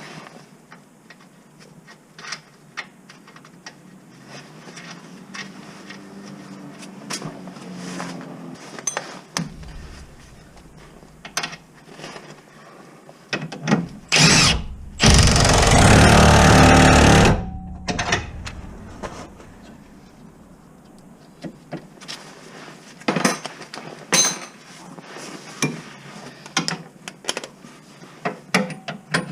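Tools being handled on a van under repair, with scattered clicks and clanks, and a loud burst of a power tool running for about three seconds a little past halfway.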